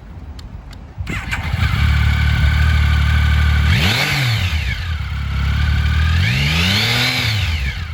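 A Triumph Tiger 1050's fuel-injected 1050cc three-cylinder engine is started, catching about a second in, then idling. It is revved twice, the pitch rising and falling each time.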